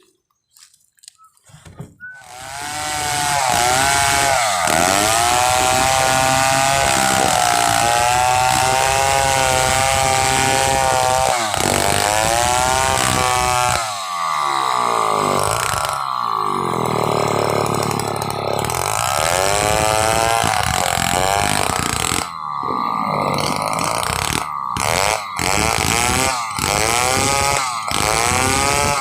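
Stihl 070 two-stroke chainsaw comes in about two seconds in and then runs at high revs, cutting pule wood into planks. Its pitch dips and recovers repeatedly as the chain loads up in the cut.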